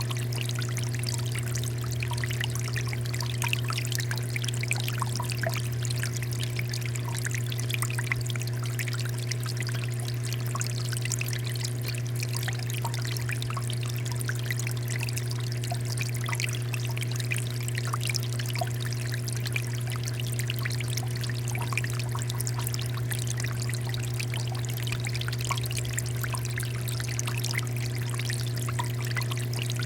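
Water fountain flowing steadily, water pouring and splashing in a constant stream, with a steady low hum underneath.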